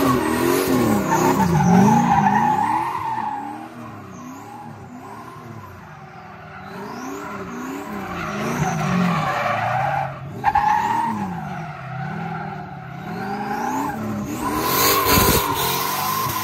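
Turbocharged V8 of a 1998 Chevrolet Camaro SS being driven hard, its revs climbing and dropping again and again, with a high turbo whistle rising along with the revs. The sound cuts out sharply for a moment about ten seconds in.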